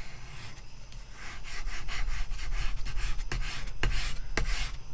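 A small hand-held block rubbed in quick back-and-forth strokes over the plastic cover film of a diamond painting canvas, pressing out trapped air bubbles. The strokes are soft at first and pick up about a second in, coming two or three times a second.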